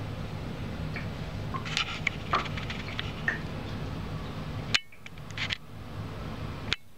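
Reptile humidifier (fogger) running with a steady low hum, with a few light glass-and-metal clinks about two to three seconds in. Sharp clicks near the middle and end, where the hum briefly drops away.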